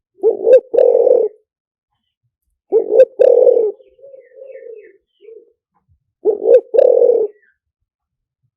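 Spotted dove cooing, a decoy bird's call used to lure wild doves: three phrases about three seconds apart, each a short coo followed by a longer one. A softer, fainter coo comes between the second and third phrases.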